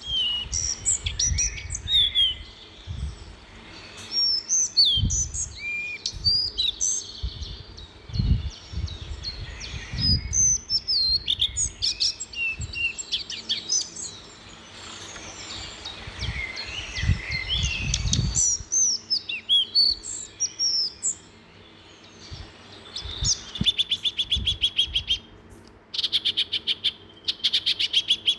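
Several songbirds chirping and whistling, with many short notes sliding up and down, and a few low thumps in the first part. In the last few seconds a rapid trill of repeated notes comes in bursts.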